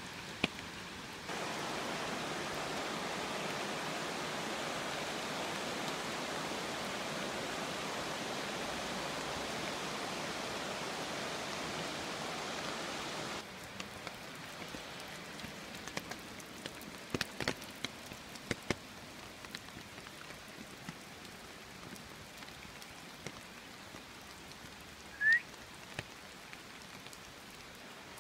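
Steady rain falling, louder from about a second in until about halfway, where it drops abruptly to a lighter patter with scattered sharp drips and taps. Near the end comes one short, high, rising squeak.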